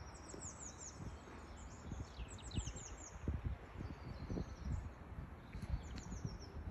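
Small songbirds chirping outdoors, in quick runs of falling notes that come in several bursts, over a low, uneven rumble.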